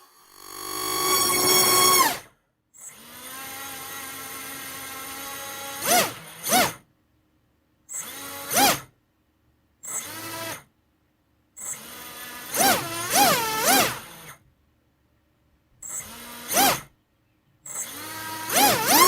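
Brushless drone motor driven by a BLHeli electronic speed controller, whining as it is throttled. It spins down just after the start, runs steadily for a few seconds, then is revved in a series of short blips, its pitch rising and falling, with pauses between.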